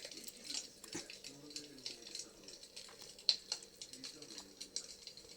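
Wood fire crackling in a fireplace: irregular sharp pops and snaps, with one louder pop a little past the middle.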